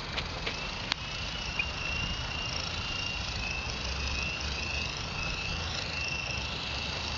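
Small electric RC helicopter running: a steady high motor whine that wavers slightly in pitch, with a few light clicks in the first second or so.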